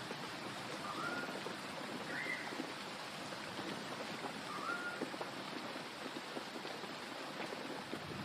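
Steady rain, an even hiss with many small drop ticks. Three short rising chirps sound over it, about one, two and four and a half seconds in.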